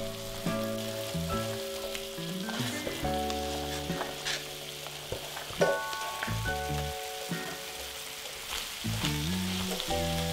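Beef and onions sizzling in hot oil in a stainless steel pan, stirred and scraped with a spatula, with a louder clatter about halfway through as sliced carrots are tipped into the pan.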